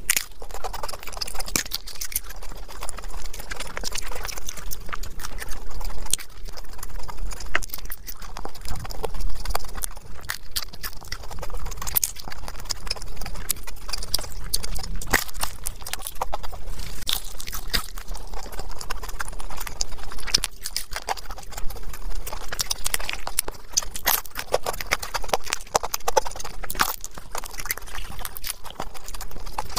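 Close-miked crunching and chewing of crisp fried samosa pastry: dense, irregular crackles and clicks, one bite after another.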